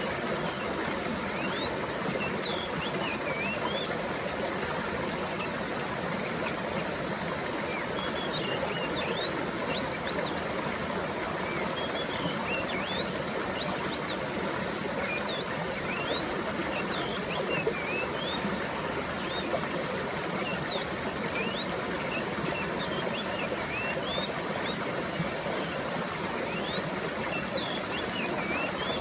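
A stream of water flowing steadily over rocks, with small birds chirping many short, quick calls throughout.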